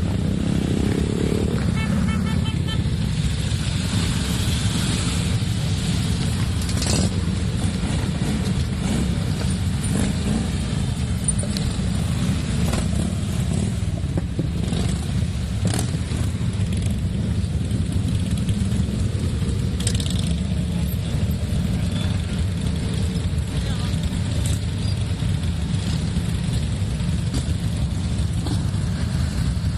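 Motorcycles in a parade rolling past with a steady, continuous engine rumble, with a short horn toot about two seconds in.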